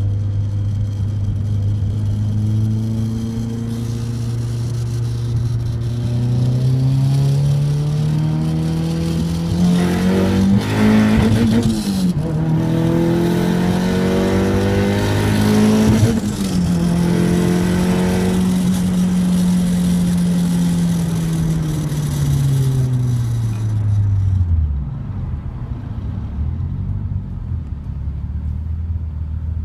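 Nissan S14 Silvia's turbocharged Tomei 2.2-litre stroker SR22DET four-cylinder, with a GTX3071R turbo running 0.8 bar boost, pulling hard as the revs climb, dropping back twice as if shifting gear, then holding steady. Near the end the revs fall away and the engine settles to a low, steady run.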